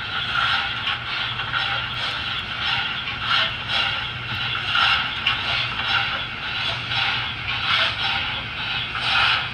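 Trix HO model steam locomotives running on the track: a steady motor hum under a continuous rolling, scraping noise of wheels on rails that swells and fades every half second or so.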